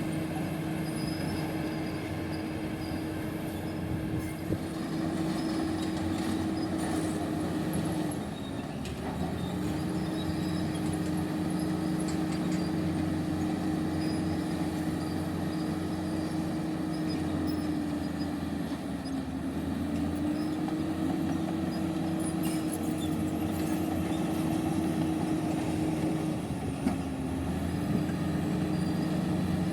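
Heavy diesel engine of earthmoving machinery running steadily. Its pitch dips briefly three times, about a third of the way in, two-thirds in and near the end, with a couple of sharp clanks.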